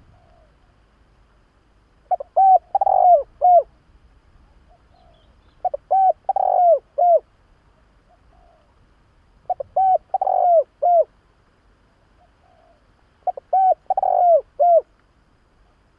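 Spotted dove (Streptopelia chinensis) singing its cooing song: four phrases of several short coos around one longer middle note, repeated about every four seconds, with faint softer notes between them.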